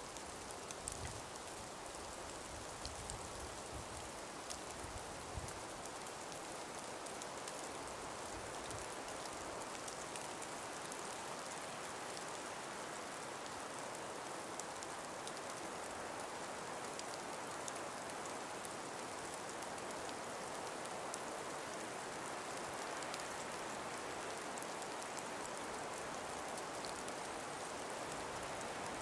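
Calm breeze in an ice- and snow-laden forest: a steady even hiss with many small scattered ticks, and a few low rumbles of wind on the microphone in the first several seconds.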